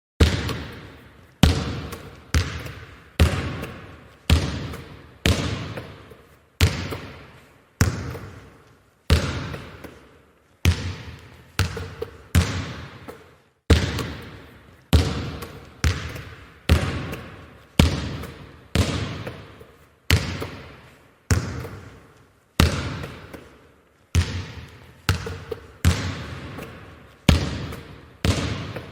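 A string of edited sound-effect hits, one about every second, each starting sharply and dying away before the next.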